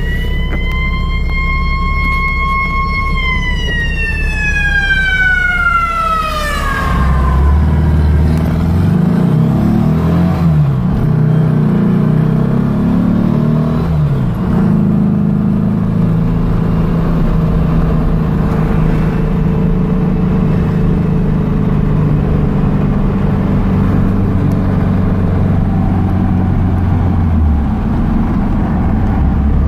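A 1970 Baja Bug's 2276cc air-cooled VW flat-four pulling away and being driven hard. A high whine rises, holds and falls away over the first seven seconds, then the engine runs on with its revs stepping up and down through gear changes.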